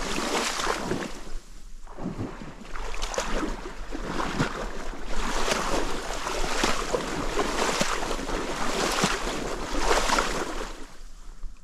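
Dry marsh bulrushes rustling close by, loud and crackly, swelling and fading in waves every few seconds.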